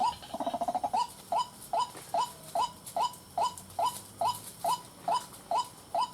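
White-breasted waterhen (ruak-ruak) calling: a quick stuttering run of notes, then a steady series of repeated hooked calls, about two and a half a second.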